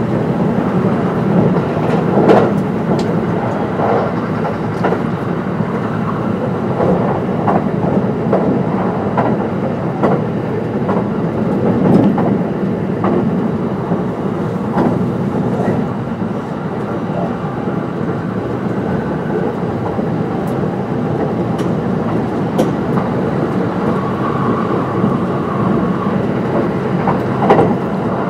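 Kintetsu 22600 series limited-express electric train running at speed: a steady rolling rumble with irregular clicks as the wheels pass rail joints. A faint steady whine comes in about 24 seconds in.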